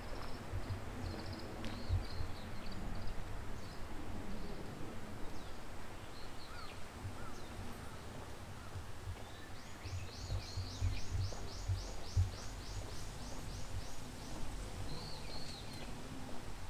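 Birds calling here and there, with a fast run of about fifteen repeated high notes, about four a second, in the middle; low thuds of footsteps walking.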